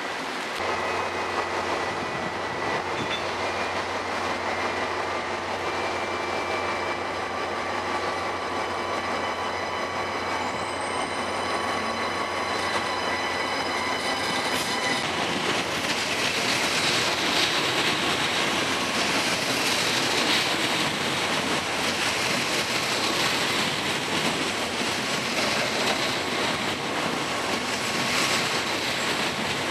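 TGV high-speed train running slowly through the station: a low steady hum with a whine of electric equipment at first, then the rolling noise of its wheels on the rails grows louder about halfway through and keeps on as the long set goes by.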